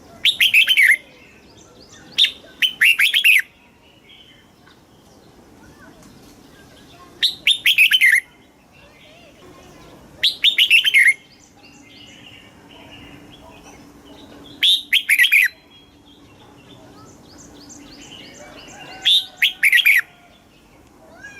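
Red-whiskered bulbul singing six short phrases of quick, loud whistled notes, a few seconds apart, with softer chirping between them.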